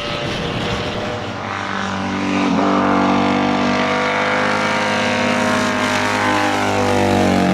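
Motorcycle engine running at fairly steady revs, getting louder about two seconds in, its pitch easing down slightly near the end.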